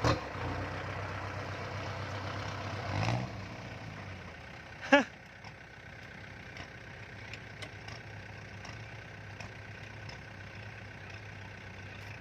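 Tractor engine running steadily, with a short surge about three seconds in. A brief, loud, high-pitched sound comes about five seconds in.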